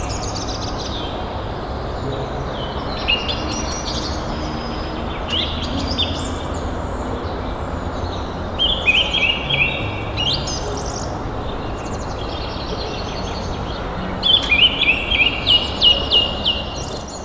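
A songbird singing short phrases of quick repeated notes, one phrase every four or five seconds, with the loudest phrase near the end, over a steady rushing background noise.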